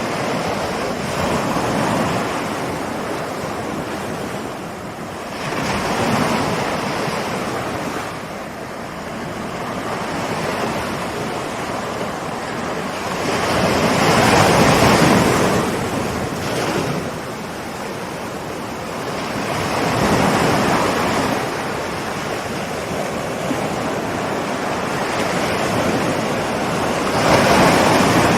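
Ocean surf: waves rolling in and washing up one after another, swelling and easing about every six or seven seconds, with the biggest surges about halfway through and near the end.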